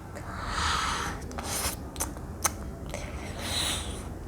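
Plastic toy ponies being handled and moved on a surface: soft rubbing and swishing noises with a few sharp light taps.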